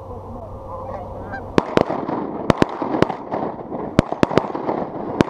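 A flock of Canada geese honking as it comes in, joined by a quick volley of about nine shotgun blasts from about a second and a half in.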